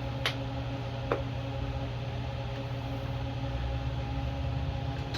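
Two light clicks from the air filter cover being fitted to a small Honda engine, about a quarter-second and a second in, over a steady low hum.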